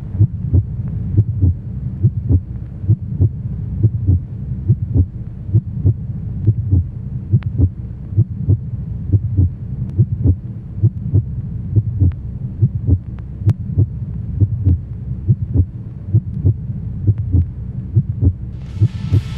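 A steady, low thudding beat, about two and a half thumps a second, each with a faint click on top. Loud heavy rock music comes in near the end.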